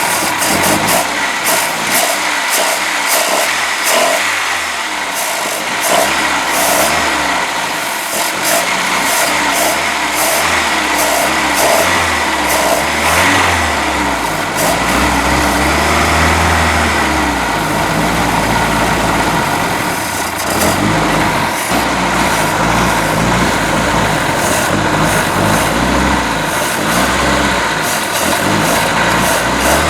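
Mercruiser 3.0 four-cylinder sterndrive engine running, its speed rising and falling unevenly rather than holding a steady idle. It runs rough because the ignition timing is off and the carburetor needs rebuilding.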